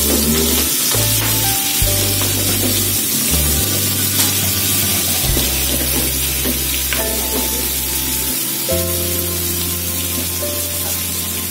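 Chili and garlic spice paste sizzling as it fries in oil in a nonstick frying pan, with a metal spoon stirring and scraping at it now and then. Background music with held notes and a bass line plays over it.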